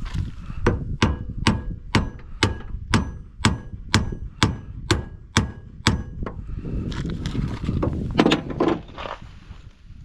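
A hammer striking metal in a steady rhythm of about two blows a second, each blow ringing briefly, about a dozen in all. After that comes a rougher stretch of scraping and rattling.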